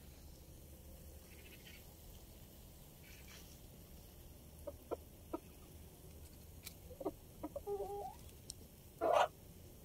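Farmyard bird calls over a faint steady low hum: a few short sharp calls in the middle, then a wavering call and a louder call near the end.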